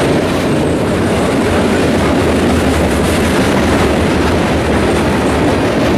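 A freight train's open hopper cars rolling past, their steel wheels making a steady loud rolling noise on the rails.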